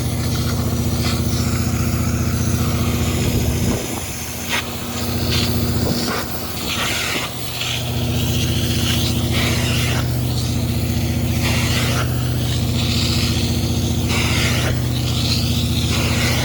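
Carpet extraction machine running steadily with a low hum, its wand hissing in repeated strokes as it sucks water out of car carpet. The hum drops away about four seconds in and comes back about eight seconds in.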